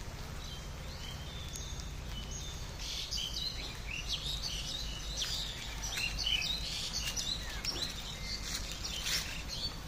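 Several birds chirping and calling in quick, short notes, busiest from about three seconds in, over a low steady rumble.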